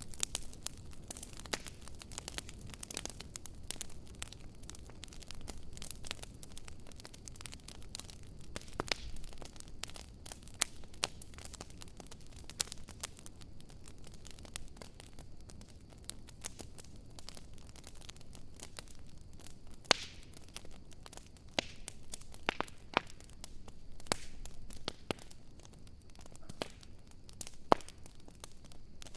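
Wood campfire crackling, with irregular sharp pops and snaps over a low steady hiss; the loudest snaps come about two-thirds of the way in and again near the end.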